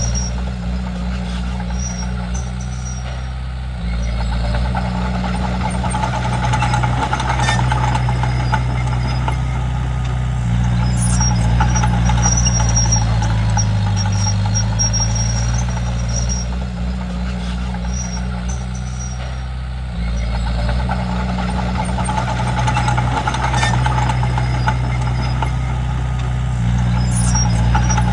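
Komatsu D31P bulldozer's diesel engine running under varying load, its low hum stepping up in pitch and loudness and dropping back every several seconds as the dozer works, with a few light clanks.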